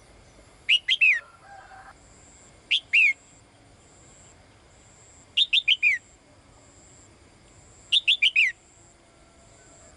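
A female caged songbird calling to a male: four short bursts of two to four quick, falling whistled notes, one about every two and a half seconds.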